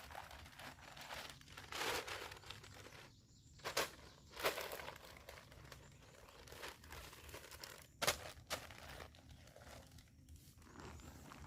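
Crinkling and rustling of handled material in irregular bursts, with a few sharper crackles.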